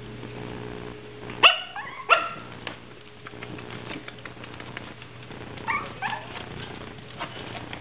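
Nine-week-old Biewer terrier puppies yapping during play: two loud, sharp, high-pitched barks about a second and a half in, then two softer ones about six seconds in.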